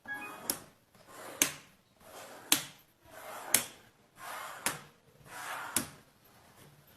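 A repeated action: a soft swish or rub that swells and ends in a sharp click, about once a second, six times over.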